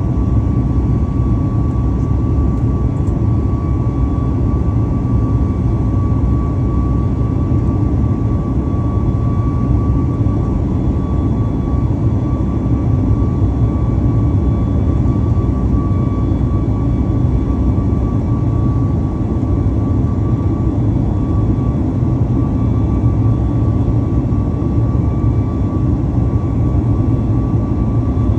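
Boeing 737 MAX 8's CFM LEAP-1B jet engines heard from inside the cabin during the climb after takeoff: a steady low rumble with a thin, steady whine over it.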